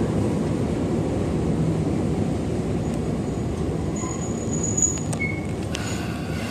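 Chichibu Railway electric local train slowing into a station, heard from inside the car. Its steady rumble of wheels and running gear slowly fades, with a few brief high squeals in the second half as it brakes.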